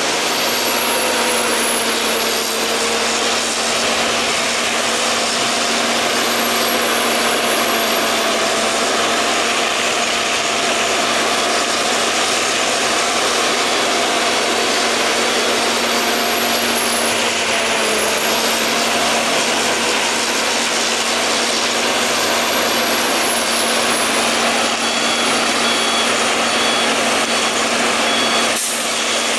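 Steady, loud machine noise with a constant low hum and a high, slowly wavering whine.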